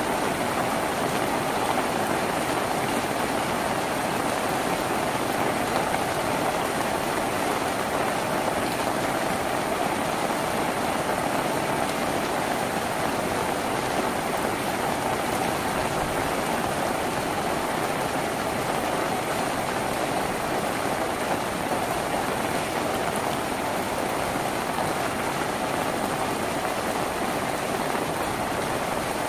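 Steady rain falling on a tin roof, heard from inside the tin house as a dense, even hiss with no single drops or gusts standing out.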